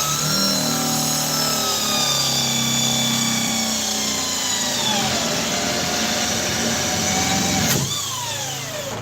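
Electric drill boring through a wooden post, running steadily under load with its motor pitch slowly sagging as the bit cuts. The pitch shifts again shortly before the end.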